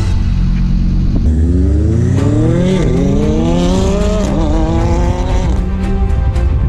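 Car engine accelerating hard over background music, its pitch climbing, dropping twice at gear changes about 2.8 and 4.2 seconds in, and climbing again before it gives way to the music.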